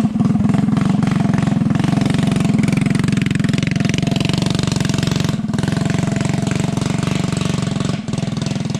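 Small single-cylinder mini bike engine running steadily, with a fast even pulsing exhaust beat. The level drops briefly about five and a half seconds in and falls again near the end.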